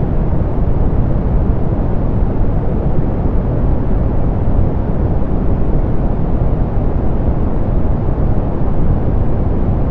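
Steady, softened pink noise, a constant deep hiss weighted toward the low end, with the highs rolled off.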